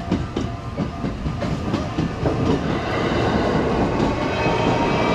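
JR Sakurai Line (Man'yō Mahoroba Line) train passing through a level crossing. Its wheels clack over the rail joints, then a steady rumble grows louder about halfway through.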